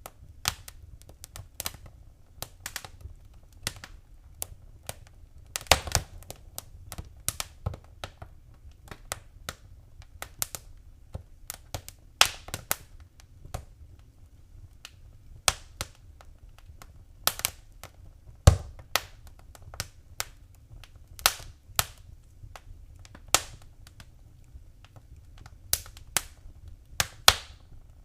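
Wood fire crackling in a fireplace: irregular sharp pops and snaps, a few much louder than the rest, over a faint low rumble.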